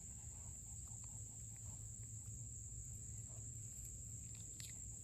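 Steady, unbroken high-pitched drone of insects singing in the background, over a low hum, with a few faint ticks.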